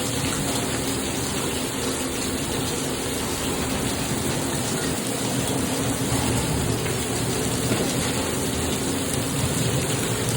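Heavy rain with hail pouring down during a hailstorm, a steady dense hiss.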